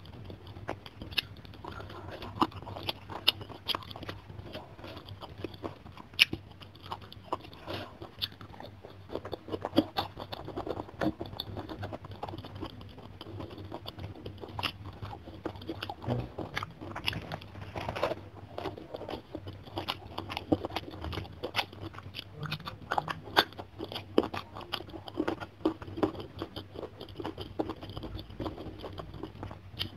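Close-miked chewing of a mouthful of food, with many sharp crunches and small wet mouth clicks, over a faint steady low hum.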